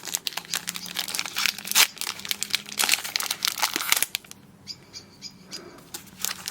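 Foil booster-pack wrapper being torn open and crinkled by hand: dense crackling for about four seconds, then only faint handling.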